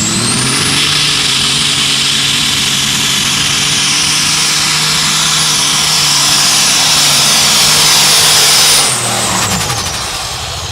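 Super stock pulling tractor's turbocharged engine running flat out under load, its turbo whine held high and steady. About nine seconds in the throttle comes off, and the engine and the turbo whine wind down.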